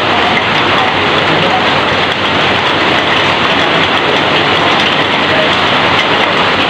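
Heavy rain falling on a corrugated metal roof and pouring off its edge: a loud, steady, dense hiss of drops.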